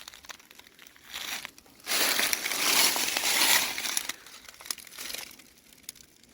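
Rustling and crunching noise: a short burst about a second in, then a longer, louder spell of about two seconds, and a smaller burst near the end.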